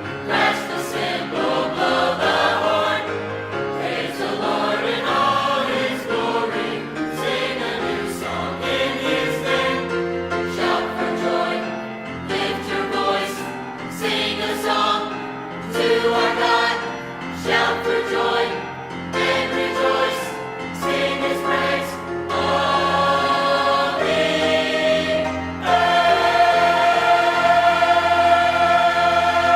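High school choir singing an upbeat sacred Christmas song. It ends on a long, loud held chord over the last few seconds that stops cleanly.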